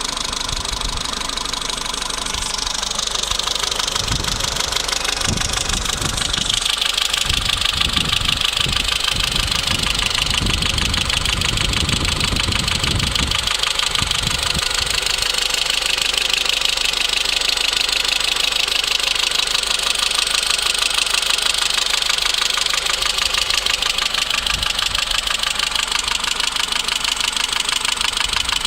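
Renault Mégane II 1.4-litre 16-valve petrol engine idling with a fast, even metallic ticking from the valvetrain: the sign of knocking hydraulic lifters. Low rumbling comes and goes in the first half.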